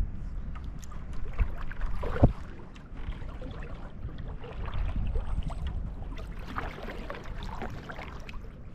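Kayak being paddled on calm water: paddle strokes splashing and dripping, with scattered small clicks and one sharp knock about two seconds in.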